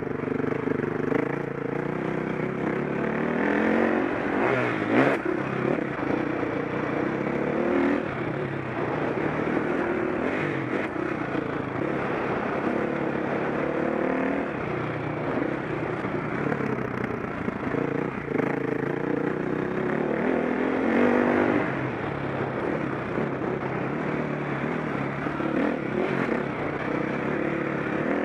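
Single-cylinder four-stroke engine of a 2003 KTM 525 SX motocross bike, revving up and dropping off again and again as it is ridden around the track, with a sharp knock about five seconds in.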